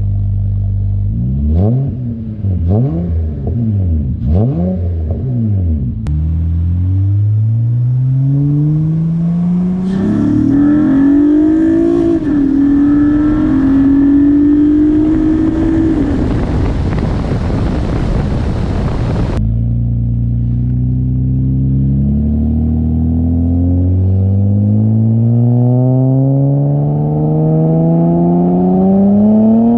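2007 Acura TL's V6 running through a custom exhaust with a Cherry Bomb glasspack and two short-body mufflers: three quick revs, then the engine note climbing steadily in two long pulls. A loud rushing noise covers the middle of the first pull and stops suddenly.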